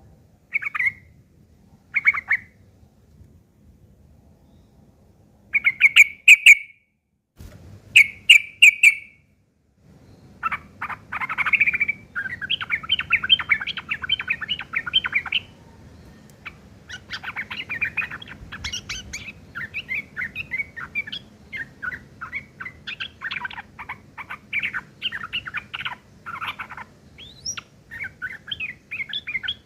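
Sooty-headed bulbul (trucuk) giving harsh, rapid 'ngeriwik' chattering mixed with mimicked long-tailed shrike (cendet) calls. A few short raspy bursts come in the first ten seconds, then near-continuous fast chattering follows.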